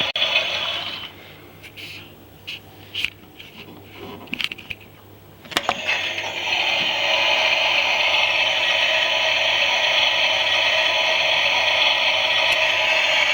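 Toy Klein Miele washing machine's small electric motor running with a steady whine, stopping about a second in. A few light clicks and rattles follow, then after a click the motor starts again and runs steadily.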